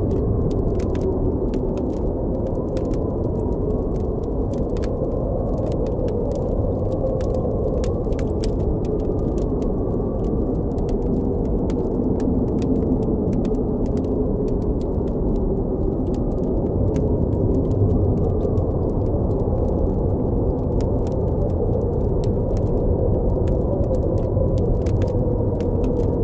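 Blizzard wind blowing steadily, a deep rush with a faint howl that slowly wavers in pitch, with the quick sharp pops and crackles of a campfire scattered throughout.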